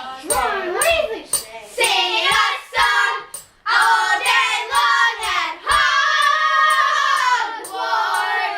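A child singing without clear words in a high voice that slides up and down, holding one long note a little past the middle, over a steady ticking of about two to three clicks a second.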